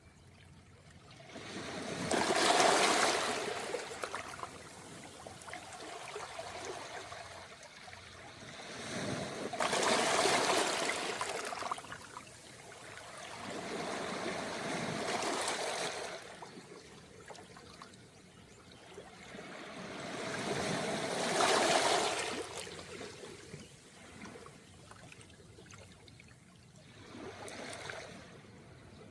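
Calm sea waves washing up a beach of smooth round pebbles, with a trickling wash of water over the stones. The waves come in about four swells roughly every six seconds, each rising to a rush and fading away, with the last one weak.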